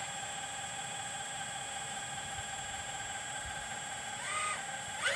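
Steady high-pitched whine, with a rooster crowing near the end.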